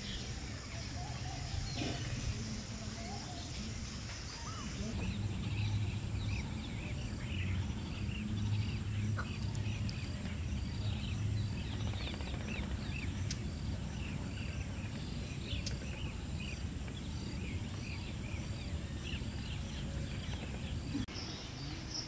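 Birds chirping in many short, quick calls, repeated through most of it, over a steady high-pitched whine and a low rumble.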